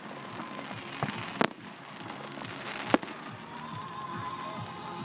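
Fireworks display: steady crackling, with two sharp bangs about a second and a half apart and a weaker one just before them.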